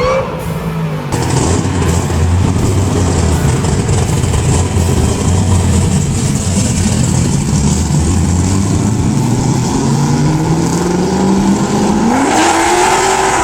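Classic Ford Mustang V8 held at high revs through a burnout, over a steady hiss of spinning tyres. Near the end the engine pitch climbs as it revs higher.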